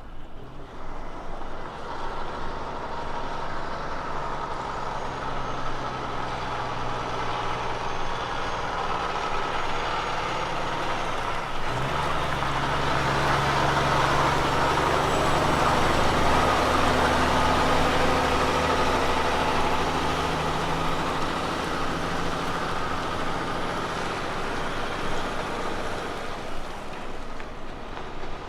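Diesel road train's prime mover engine running under way with road noise. A deeper engine note comes in about twelve seconds in. The sound builds to its loudest around the middle and then fades as the truck passes.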